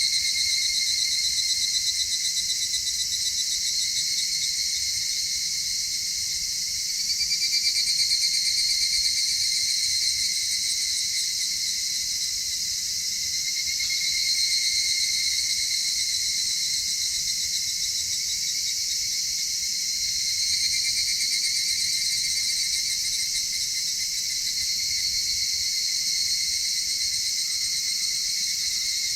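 Chorus of crickets and other singing insects: a steady, high trilling at several pitches that swells a little every few seconds.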